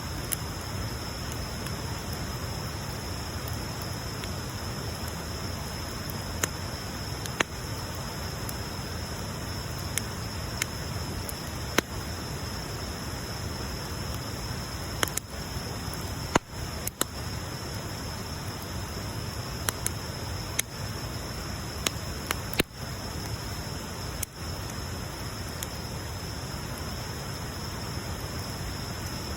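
Wood bonfire burning: a steady hiss with a dozen or so sharp crackles and pops scattered irregularly through it.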